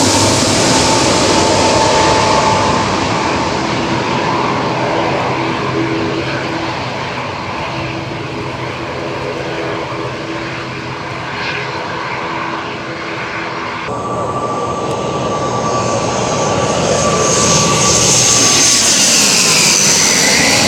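Airliner engines running loudly as the aircraft passes close by. About two-thirds of the way through the sound cuts abruptly to another loud pass, whose engine whine falls in pitch near the end.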